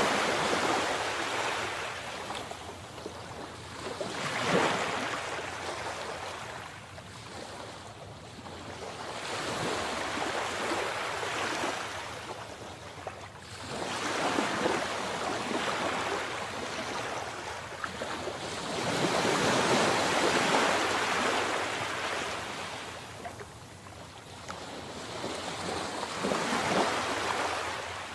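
Sea waves breaking and washing ashore, the surf rising and falling in about six surges, one every four to five seconds.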